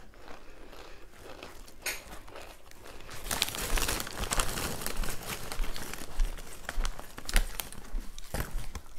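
A person chewing food close to a lapel microphone, with crackly mouth noises that get busier and louder from about three seconds in.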